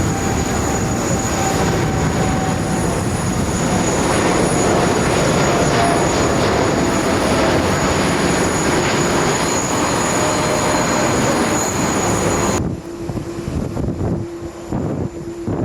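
A jet airliner's engines running loud and close as it passes the runway, a dense rush with a thin high whine on top. About three-quarters of the way through the sound cuts off abruptly, leaving wind buffeting and a faint steady hum.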